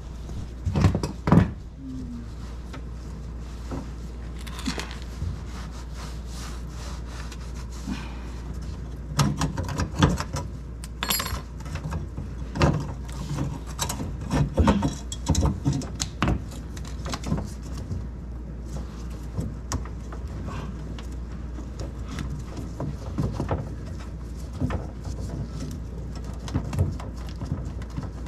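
Irregular clicks, clinks and knocks of hand tools and fittings being handled while a refrigerator water inlet valve is removed, over a steady low hum.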